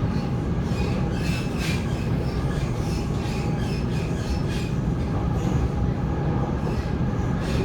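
Waratah A set double-deck electric train running at speed, heard from inside the carriage: a steady rumble of wheels on track with a few faint clicks.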